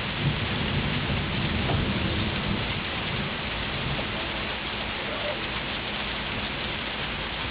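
Heavy rain pouring steadily. A low rumble runs under it for the first couple of seconds, then eases.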